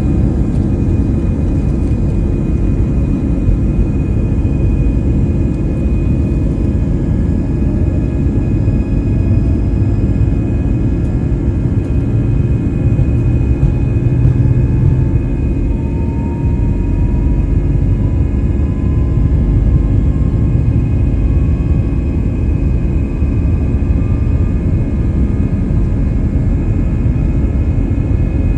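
Airbus A320-200 jet engines heard from inside the passenger cabin: a loud, steady rumble with several held tones over it. A faint tone rises slowly through the middle of the stretch.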